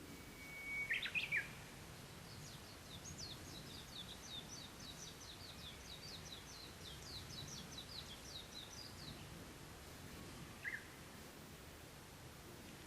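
Wild songbirds singing. About a second in comes a loud whistled phrase that holds one note and then breaks into a quick flourish. From about two seconds in, a long run of fast high notes lasts about seven seconds, and a single short call comes near the end.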